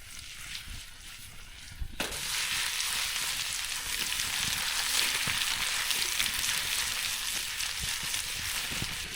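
Food frying in a hot pan, a steady sizzle that starts suddenly about two seconds in.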